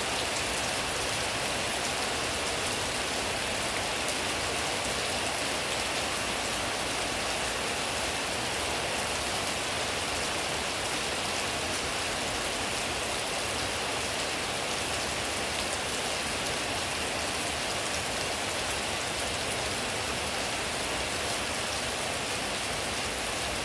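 Steady rain falling, an even hiss of drops on surfaces that holds constant throughout.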